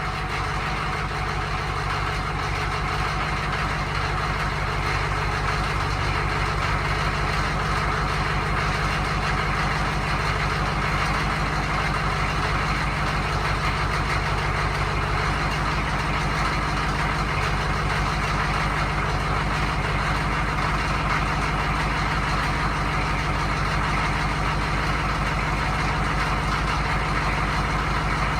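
1985 Chevy K10 Suburban's 6.2 Detroit diesel V8 idling steadily, with a rapid, even ticking beat, shortly after a cold start without the block heater plugged in, having sat for about a month.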